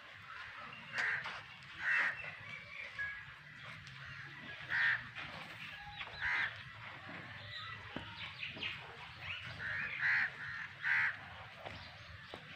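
Birds calling outdoors: about six short, loud calls spaced unevenly, with fainter chirps between them.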